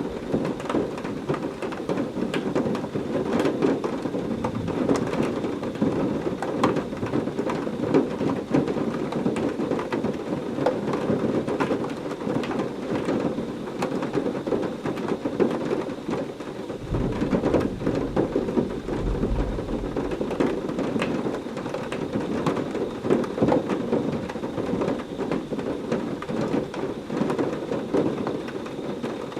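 Heavy rain falling steadily, with many separate drops ticking through the downpour. About halfway through, a low rumble of thunder rolls for a few seconds.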